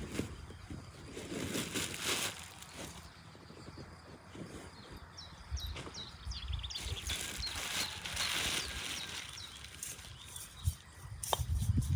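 Birdsong with rustling: a bird gives a quick run of short chirps about five seconds in, amid bursts of rustling.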